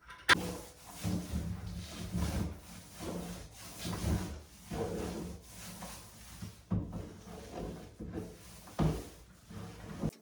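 Paintbrush strokes brushing primer onto a wall: repeated scratchy rubbing, roughly one stroke a second, with a sharp click just after the start.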